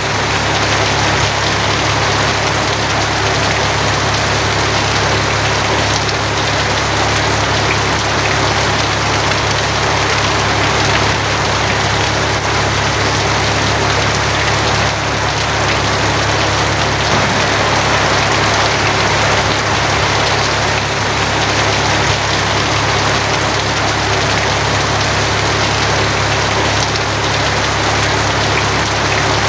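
Steady heavy rain drumming on a tin roof, with an even low rumble underneath.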